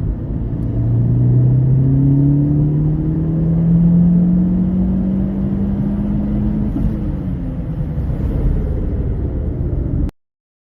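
Tuned 410 hp Saab 9-5 wagon accelerating hard through its modified exhaust, the engine note rising steadily in pitch for about seven seconds. The rising note then breaks off and the engine keeps pulling until the sound cuts off suddenly near the end.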